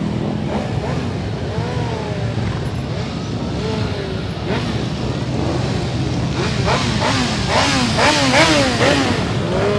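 A motor vehicle engine running steadily, likely heard from a motorcycle ride. Over it a pitched voice-like sound slides up and down repeatedly, busiest in the second half.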